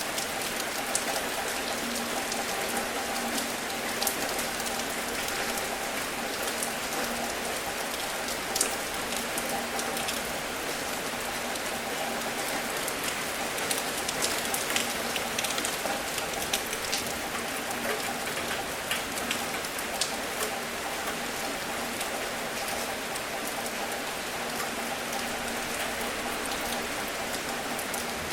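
Steady rain falling, with a dense hiss and many sharp individual drop ticks spread throughout.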